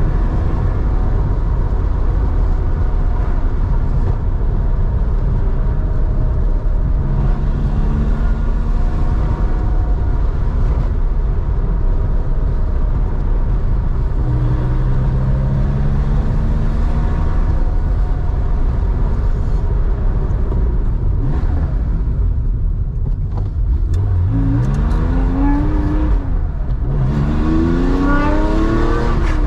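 1987 Porsche 911's air-cooled flat-six, a 3.4-litre build breathing through a Scart two-in-one-out muffler, running on the road over a heavy low rumble. Near the end it revs up hard twice in quick succession, the pitch climbing steeply each time.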